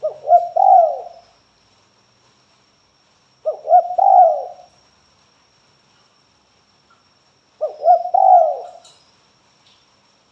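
Spotted dove (tekukur) calling: three cooing phrases about four seconds apart, each a short quick note followed by longer wavering coos.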